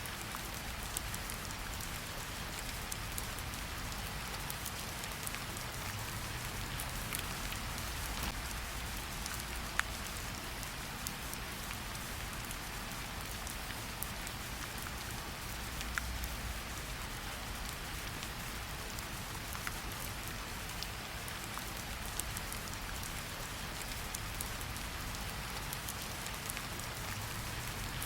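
Steady rain falling in a forest, a continuous hiss with many small drops ticking, now and then a louder single drop.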